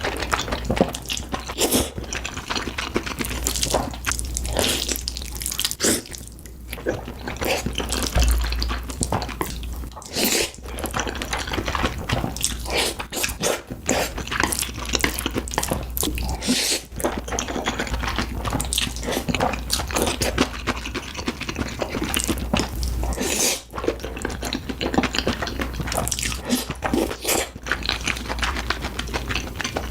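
Close-miked ASMR eating: wet chewing and slurping mouth sounds with some crunching, a steady stream of quick, sharp smacks.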